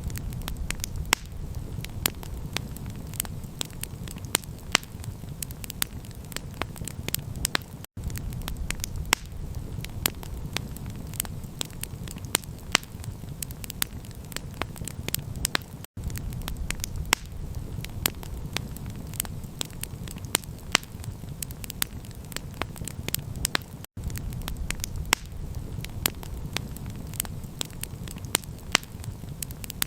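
Campfire crackling: irregular sharp pops and snaps over a steady low rumble, cutting out for an instant about every eight seconds as the recording loops.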